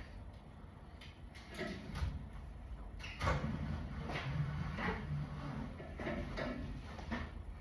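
A run of separate knocks and rattles about a second apart, with a low rumble in the middle stretch, typical of cargo being handled and secured in the back of a box truck.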